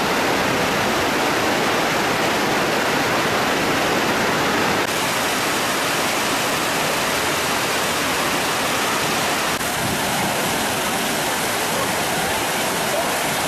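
Waterfall: a steady, dense rush of falling water, shifting slightly in tone about five and ten seconds in.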